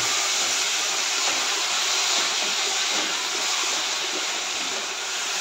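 Boiled green gram sizzling steadily in hot ghee in a frying pan as it is stirred with a wooden spatula.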